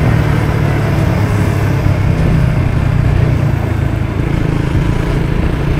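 Lexmoto motorcycle engine running steadily while riding: an even low drone with steady noise above it and no change in pitch.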